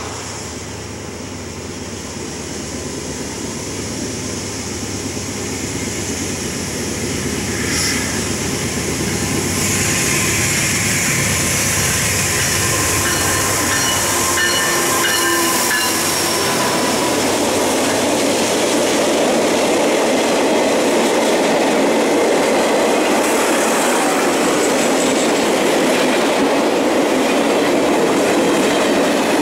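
Norfolk Southern GE D9-44CW diesel locomotive approaching, growing louder over the first several seconds, with steady tones from the engine as it passes about halfway through. Then the even, steady noise of a train of camp cars rolling by, wheels running over the rails.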